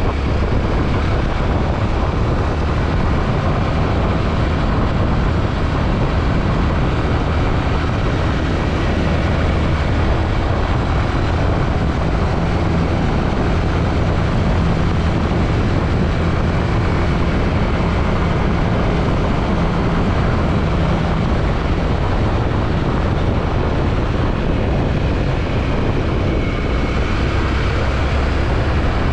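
Yamaha WR155R motorcycle's single-cylinder engine running steadily at cruising speed, with a constant rush of wind and road noise.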